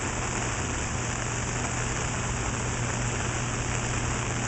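Steady rain falling and pattering on an umbrella, an even hiss with no breaks, over a steady low hum.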